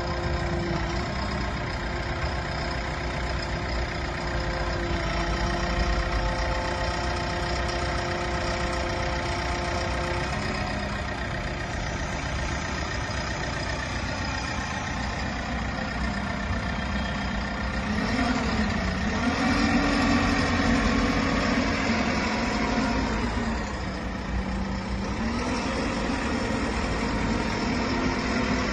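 JCB 4DX backhoe loader's diesel engine running steadily, then rising and falling in speed several times in the second half.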